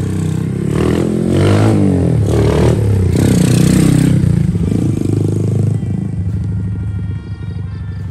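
Yamaha Byson's single-cylinder four-stroke engine revving and accelerating as the motorcycle rides up and passes close by. It is loudest about three to four seconds in, then fades as the bike rides away.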